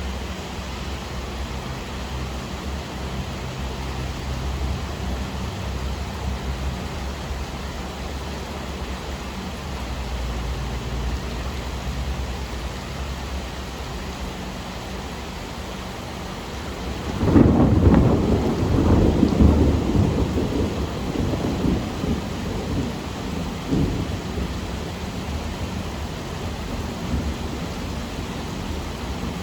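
Steady rain with a low rumble beneath it. Just over halfway through, a loud clap of thunder breaks in and rolls away over several seconds, with a smaller rumble following.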